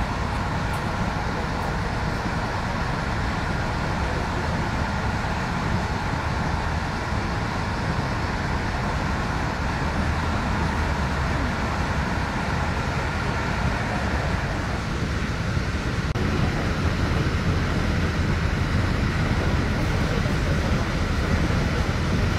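Steady running noise of an Intercity passenger train, heard from inside the carriage: a low rumble from the wheels on the track.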